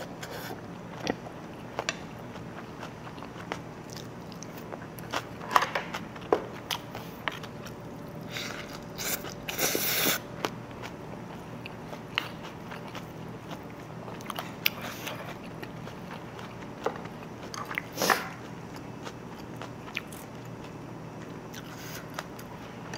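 Close-miked chewing and eating sounds of a person eating fried rice mixed with chili jjajang sauce, with scattered sharp clicks and a louder noisy stretch about ten seconds in.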